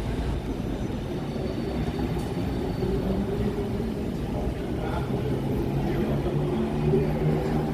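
Steady low rumble of vehicles in a city, with an engine hum that grows a little louder and rises slightly near the end.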